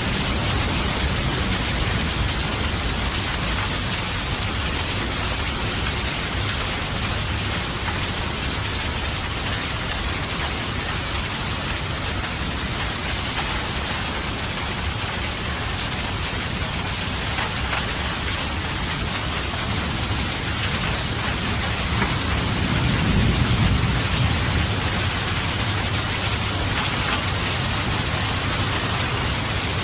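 Steady, fairly loud rain falling, with a low rumble of thunder fading at the start and swelling again about three quarters of the way through.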